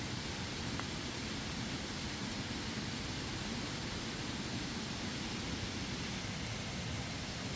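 Steady, even rushing noise with a couple of faint clicks.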